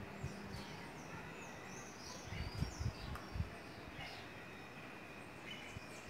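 Small birds chirping in quick, short falling notes over a low outdoor background, with a few dull low knocks around the middle.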